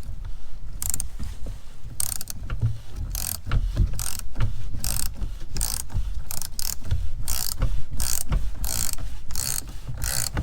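Hand ratchet clicking in repeated back-strokes, roughly one or two a second, as it unscrews the oil filter housing.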